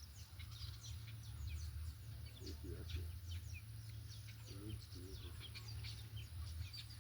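Small birds chirping: many quick, short falling notes in a steady scatter over a low, steady rumble.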